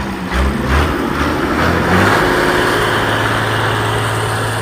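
Tractor engine running hard, surging unevenly a few times in the first second, then settling into a steady drone.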